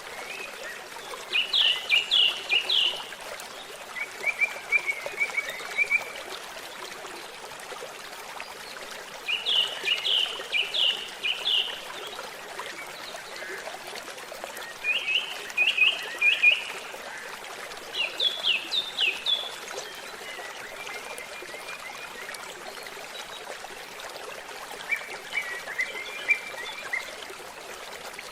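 Songbirds singing in short bursts of quick, high chirps every few seconds over the steady rush of a trickling stream.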